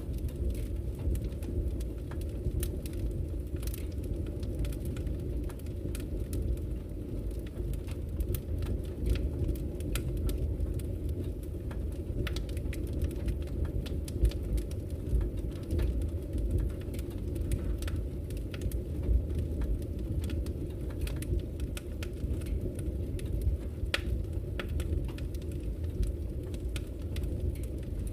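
Wood fire burning in a fireplace: a steady low rumble with irregular crackles and pops from the burning logs.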